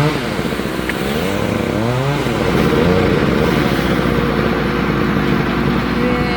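Chainsaw revving up and down in short bursts over a steady low engine drone, as limbs are cut from a storm-damaged tree.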